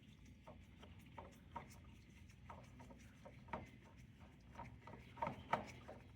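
Engine oil dripping from the mower's oil filter mount onto the parts below, as faint, irregular drips that come a little more often and louder near the end.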